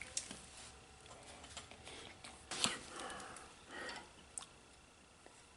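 Light clicks and short scrapes of small metal parts being handled as a diesel injector nozzle's stuck needle is worked at by hand, the sharpest click about two and a half seconds in and another near the end. The needle stays stuck in the nozzle.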